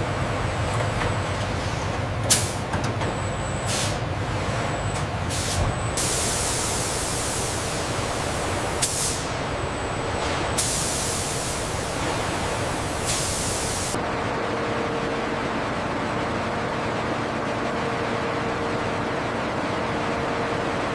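Steady factory machinery noise with bursts of air hissing, a few short and two lasting a couple of seconds each; a steady hum joins it about two-thirds of the way in.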